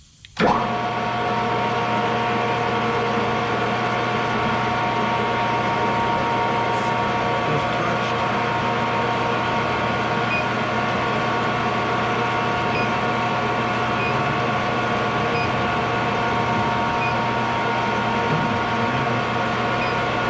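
Metal lathe switched on about half a second in, its motor and drive then running steadily with a hum and several steady whining tones.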